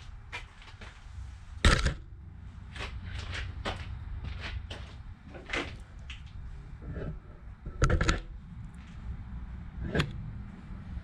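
Workshop handling noise: a string of sharp knocks and metal clinks as tools and parts are picked up and set down, with two louder knocks about two seconds in and about eight seconds in, over a low steady hum.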